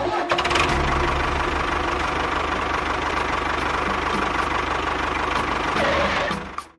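Engine running steadily with a regular low pulsing, fading out near the end.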